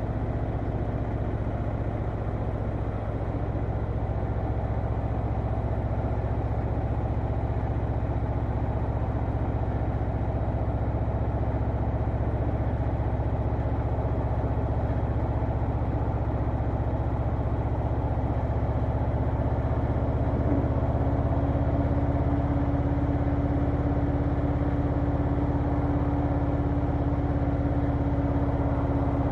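Harley-Davidson Low Rider S V-twin engine running steadily, with no big revs; a steady higher hum joins about two-thirds of the way through.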